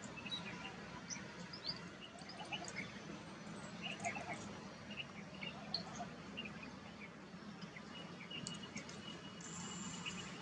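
Faint outdoor ambience of short bird chirps and twitters scattered all through, over a steady low background rumble.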